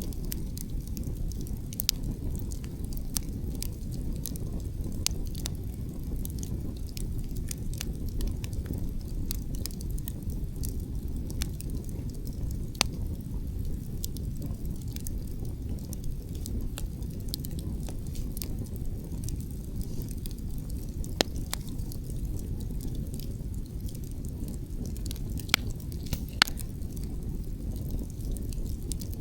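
Wood campfire crackling: frequent sharp snaps and pops over a steady low rumble, with a few louder pops scattered through and two close together near the end.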